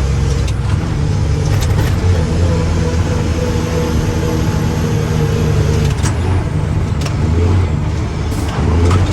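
Mack truck's diesel engine running steadily, its pitch shifting slightly, with a few light clicks or rattles over it.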